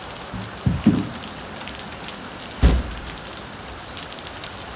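Hail and rain coming down hard on surfaces, a steady hiss with scattered sharp ticks of stones striking. Two dull thumps come close together just under a second in, and a louder one a little past the middle.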